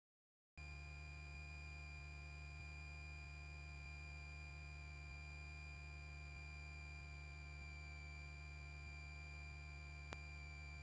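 Faint steady electrical whine and hum on the cockpit intercom audio, cutting in abruptly after a moment of dead silence; a single click near the end.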